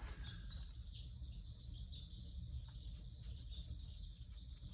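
Faint background sound: a low steady hum with a thin, steady high-pitched tone over it.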